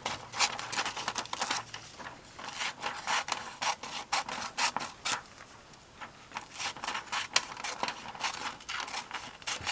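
Scissors snipping through glossy magazine paper, a long run of short, irregular cuts.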